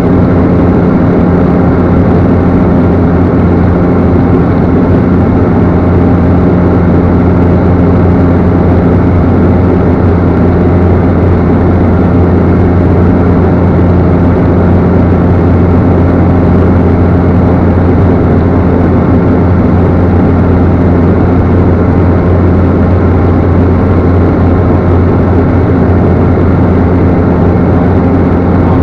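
Cessna Caravan's single PT6A turboprop engine and propeller running steadily: a loud, even drone with a strong low hum and several steady tones above it.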